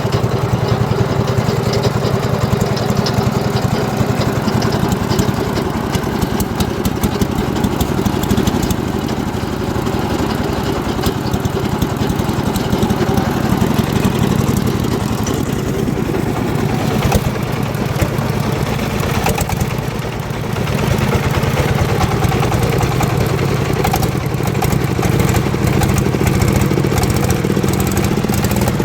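The engine of a homemade circular sawmill runs steadily with an even, rapid pulse, dipping briefly about two-thirds of the way through.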